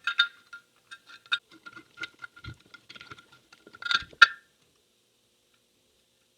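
Light metallic clicks and clinks of small carburetor parts and a hand tool being handled while a Holley 1904 carburetor is reassembled, fitting the float inlet retaining screw and washers. A louder pair of clinks comes about four seconds in.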